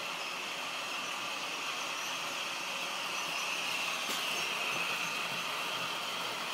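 OO gauge model diesel locomotive's DCC sound decoder playing a diesel engine running sound through its small speaker, a steady hissy drone with little bass, swelling slightly in the middle.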